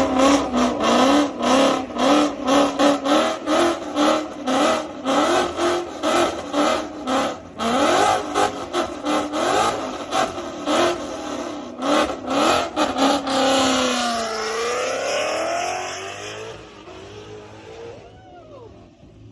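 Car engine revved in rapid repeated throttle blips, about two to three a second, each with a sharp crack. About fourteen seconds in, the engine pulls with a long rising pitch and then fades away as the car drives off.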